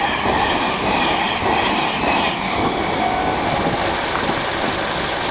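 Meitetsu 2200 series electric express train passing over a level crossing, a steady rumble of wheels on rail with clattering over the joints.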